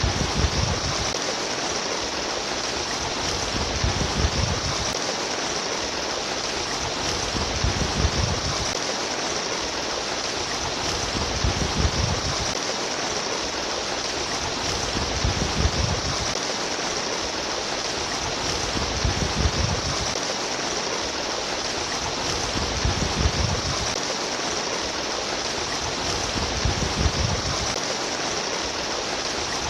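Trickling, splashing water running steadily, with a low rush swelling in about every four seconds.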